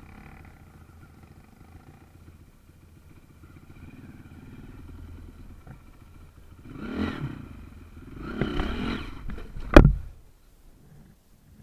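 Small trail motorcycle engine running low and slow, revved up twice in the second half, each rev rising and falling in pitch. A single sharp knock comes just after the second rev.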